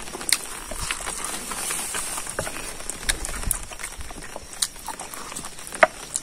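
Close-up eating sounds of a person chewing pork and rice with mouth open and lip smacks: a handful of sharp wet smacks and clicks scattered through the chewing, the loudest a little before the end.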